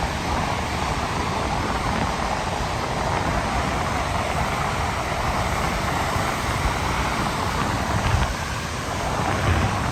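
Wind buffeting the microphone, a steady rush of noise with a gusty low rumble.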